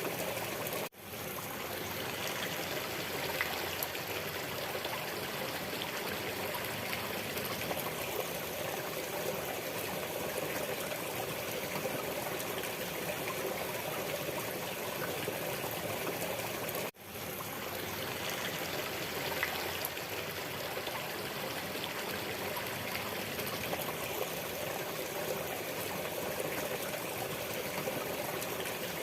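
Waterfall rushing in a steady, even wash of water noise. It cuts out abruptly twice, about a second in and again about 17 seconds in, and fades back within a second each time.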